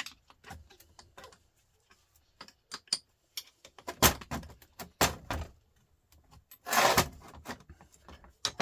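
Metal clinks and knocks of hand tools against the parts of a truck starter motor being worked apart, with two louder knocks about four and five seconds in and a short rattling scrape near seven seconds.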